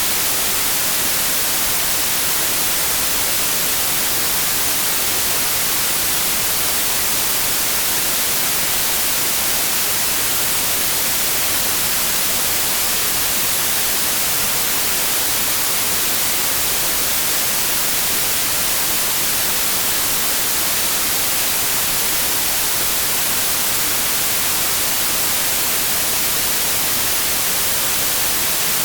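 Steady synthetic white noise: an even, unchanging hiss weighted toward the high end, with no other sound.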